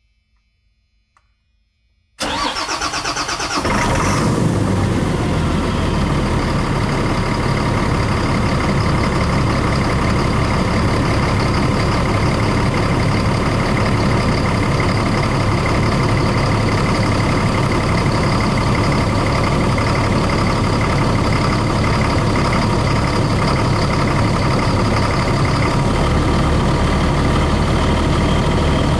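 Engine cold-started: it cranks briefly about two seconds in, catches, and settles into a steady idle.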